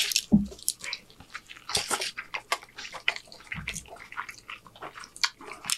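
Close-miked chewing and mouth sounds of eating, a scattering of short wet clicks and smacks.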